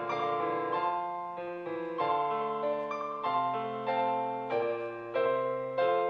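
Background piano music: a slow hymn tune played in struck chords that change about every half second to second.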